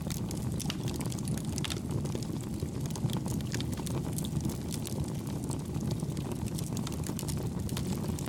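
Campfire burning: a steady low rush of flame with frequent small, light crackles and pops, kept soft.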